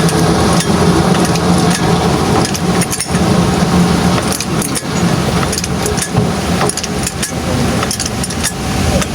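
Truck engine running steadily, with repeated sharp metallic clinks and taps over it, thickest through the middle and later part.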